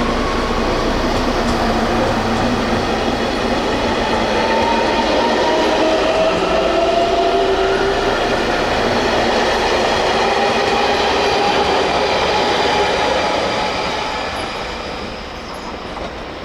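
A JR Kyushu local electric train running past, its traction motors whining in several slowly rising tones as it gathers speed. The sound fades over the last few seconds as the train pulls away.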